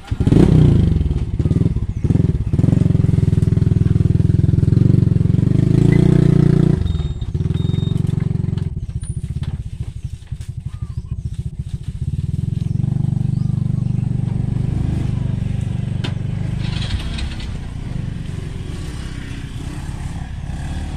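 Honda Wave motorbike's small four-stroke single-cylinder engine running close by, loud from the first moment and revving. About seven seconds in it drops to a quieter, rapid putter at idle, then runs steady again from about twelve seconds in.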